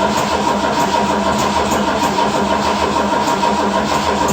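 Ford 429 big-block V8 running steadily just after a cold start, the engine still cold after sitting over a month in subzero temperatures; it is cold-blooded.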